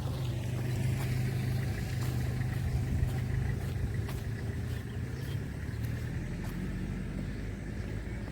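A motor vehicle's engine running steadily at a low, even pitch, with a few faint knocks along the way.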